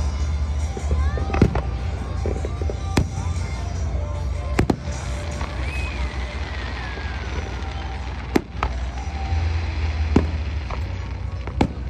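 Fireworks display: about half a dozen sharp bangs of aerial shells bursting, a second or more apart, over a steady low rumble.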